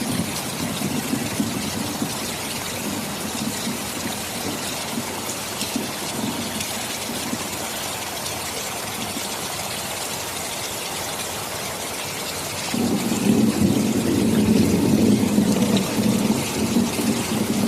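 Heavy rain falling steadily, with a low rumble of thunder that swells louder about 13 seconds in and carries on to the end.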